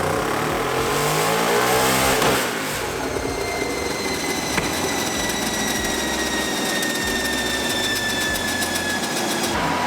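Turbocharged single-cylinder Yamaha Raptor 660 engine revving up on a chassis dyno for about two seconds, then cutting out as the pull hits the rev limiter and the engine shuts off. After that a steady whine slowly falls in pitch as the drivetrain spins down. The shutdown was likely caused by a vacuum leak from a missing intake manifold bolt.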